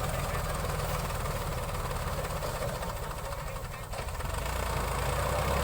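Tractor diesel engine running steadily with a low pulsing beat, dipping slightly about three and a half seconds in, then picking up again.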